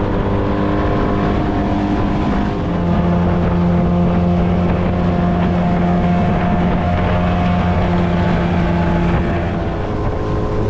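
Boat's outboard motor running under way, with wind on the microphone; the engine note steps up about three seconds in and eases back near the end.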